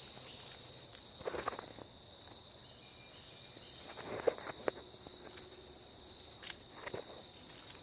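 A few scattered footsteps on the ground, in small clusters about a second, four seconds and near the end, over a steady high-pitched insect call.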